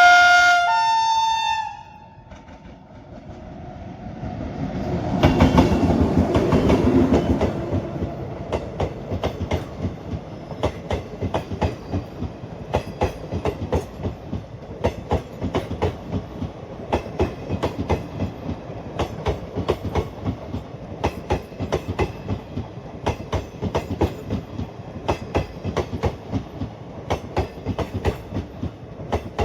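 Train horn blast with a step up in pitch partway through, then a passenger train passes: the locomotive's loud rush builds and peaks about five seconds in, followed by the steady clickety-clack of the coaches' wheels over the rail joints.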